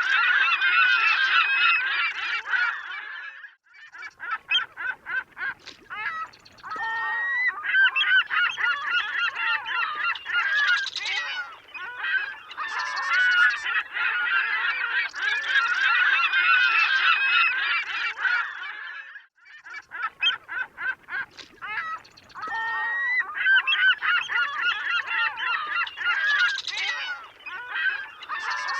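A flock of gulls calling, many squawking calls overlapping. The chorus thins to scattered single calls twice, about four seconds in and again around twenty seconds in, before filling back in.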